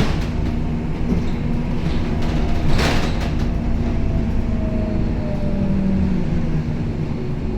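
Scania K270UB city bus heard from inside while under way: the engine runs steadily with a thin drivetrain whine that slowly falls in pitch. A brief loud rush of noise comes about three seconds in.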